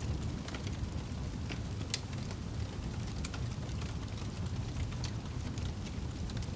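Wood fire crackling in a fireplace: a steady low rumble with irregular sharp pops, one louder pop about two seconds in.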